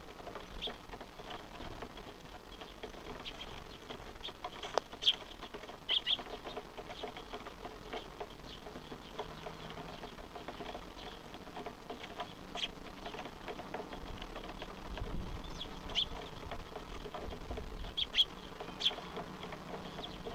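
Small birds giving short, high chirps at irregular intervals, a few louder than the rest: the begging calls of fledglings being fed by their parents.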